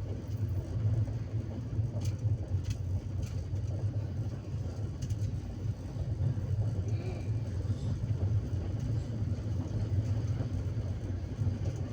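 Steady low rumble of a train running, with a few faint clicks about two to three seconds in and again near five seconds.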